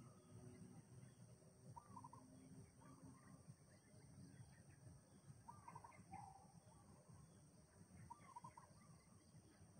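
Faint bird calls: a short, arching call repeated a few times over a low background hiss.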